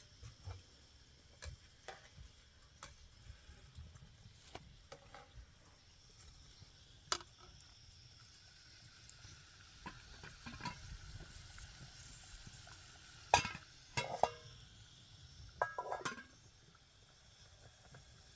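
Scattered knocks and clinks of things being handled. Most are faint; a few louder strikes come in a cluster about two-thirds of the way through.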